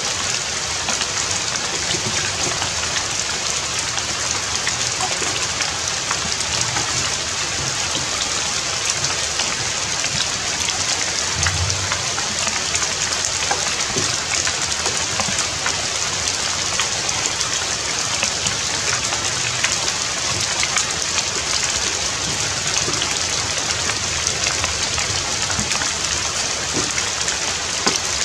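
Steady rainfall: a constant hiss of falling rain with many small drop hits.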